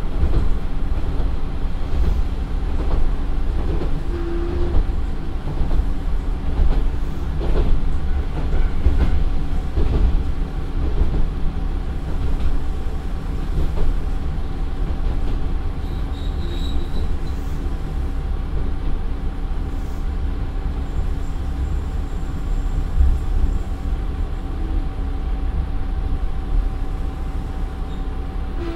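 Inside the NaGaRa 3 diesel railcar NaGaRa 303 slowing from about 50 km/h to a crawl: wheels clacking over the joints of short rails, the clacks coming often at first and spacing out after about ten seconds, over a steady low running rumble and a faint steady hum.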